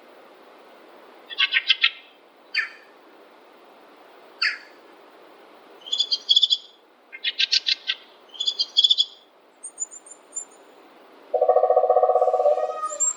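Several forest birds calling over a steady background hiss: short rapid chattering trills and sharp calls, repeated a number of times, then a lower buzzy trill lasting over a second near the end.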